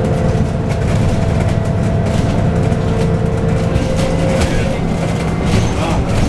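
Interior of a Scania N280UD double-decker bus on the move: its Scania OC09 9.0-litre biogas engine and driveline running steadily with a constant hum and whine, over road noise and light cabin rattles.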